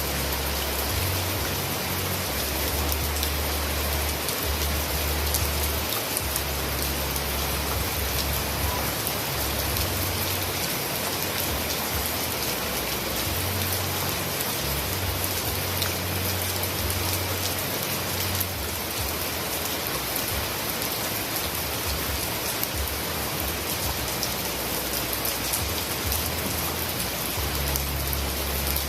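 Heavy rain falling steadily: a dense, even hiss of drops. Underneath it, a low rumble comes and goes every few seconds.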